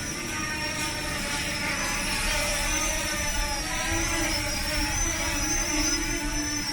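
Parrot Anafi Thermal quadcopter's propellers and motors whining in flight, a high whine that wavers in pitch as the rotor speeds shift, growing slightly louder about two seconds in.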